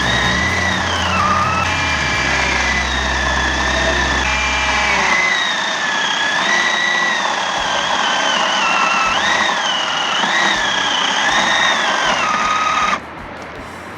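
Einhell GE-LC 18/25 Li cordless battery chainsaw running and cutting wood: a high electric motor whine whose pitch sags as the chain bites and climbs back as it frees, several times over. It stops abruptly near the end.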